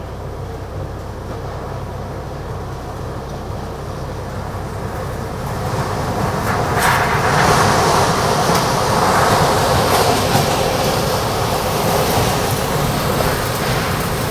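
Tornado wind: a steady low rumble that swells about six seconds in into a loud rushing noise, with one sharp crack a second later.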